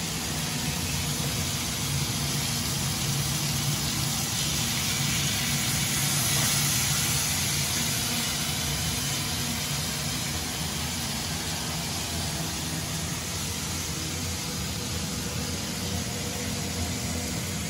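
Marinated chicken leg pieces frying in oil in a pan on a gas stove, a steady hiss that swells a little about five seconds in and eases off a few seconds later. A low steady hum runs underneath.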